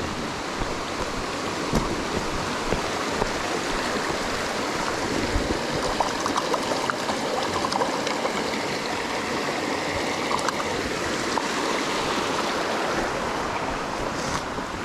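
River water running steadily, with a few small splashes and ticks as a fish fillet is rinsed in it.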